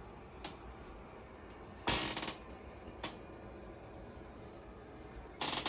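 Knife cutting fruit on a chopping board: a few scattered taps and short scraping strokes, the loudest about two seconds in and another near the end.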